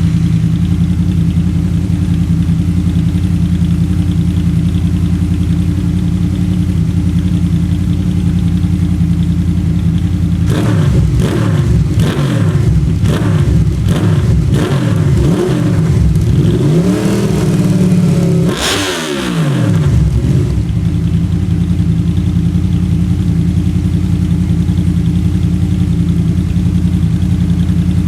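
Honda VFR800 VTEC's V4 engine through a Delkevic mini 200 mm round aftermarket exhaust: idling steadily, then blipped through a run of quick revs about ten seconds in, with one longer, higher rev before it drops back to a steady idle.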